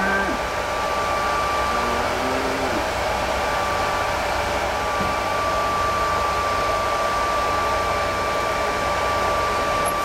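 Steady mechanical whirring hum with a constant high whine, like a running fan or motor, with a brief faint low sound about two seconds in.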